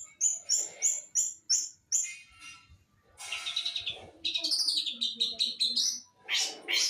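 Long-tailed shrike (pentet) singing. It gives a run of sharp repeated high notes at about three a second, pauses briefly, then breaks into a fast, varied warbling song from about three seconds in.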